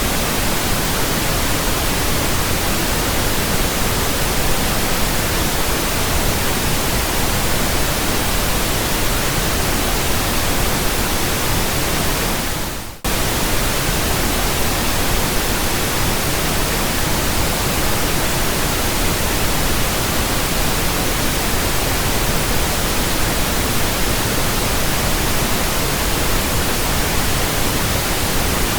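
Steady pink noise from a pink noise generator, played as a burn-in signal for speakers and earphones. About halfway through it fades down briefly, then cuts straight back in.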